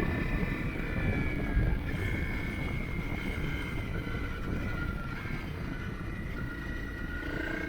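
Motorcycle under way: a steady engine note with low rumbling road and wind noise, and a short thump about a second and a half in.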